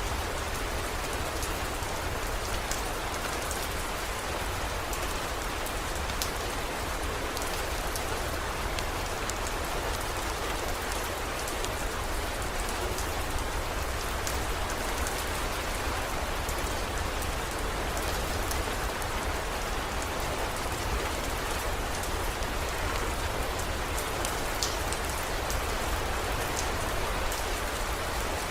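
Steady heavy rain with scattered sharp drop ticks and a steady low rumble underneath.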